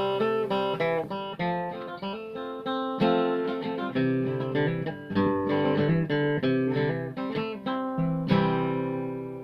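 Outro music: fingerpicked acoustic guitar playing a melody, ending on a strummed chord near the end that rings out.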